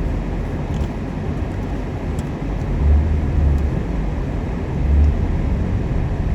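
Low rumble of a 2018 Jeep Grand Cherokee driving down a snow-covered road, heard from inside the cabin, with engine and tyre noise. It swells twice, about three and five seconds in.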